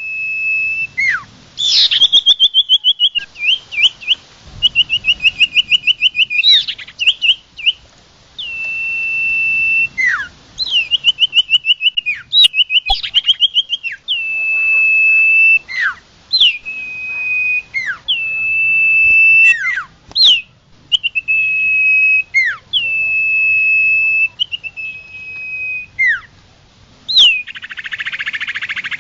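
A local 'sirtu' songbird singing without pause. Its song is a string of steady high whistles, each broken by a sharp downward-swooping note, mixed with fast rattling trills.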